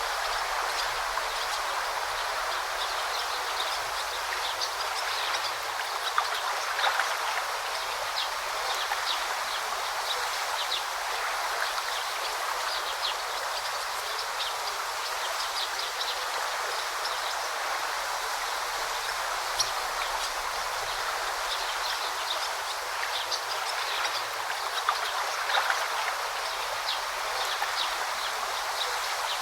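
A babbling brook: river water flowing in a steady, continuous rush, flecked with many small, bright splashes.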